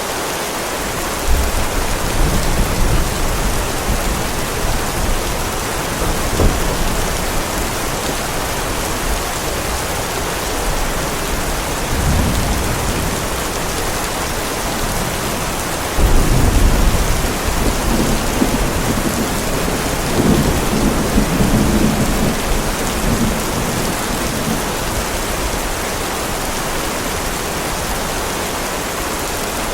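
Heavy rain falling steadily, with several low rolls of thunder rumbling over it. The loudest roll breaks in suddenly about halfway through, and another follows a few seconds later.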